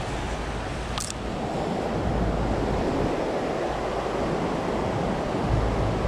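Steady rush of river water around a wading angler, with wind rumbling on the microphone. There is a single sharp click about a second in.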